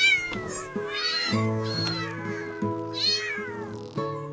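Cat meowing three times, each meow falling in pitch, over background music with steady held notes.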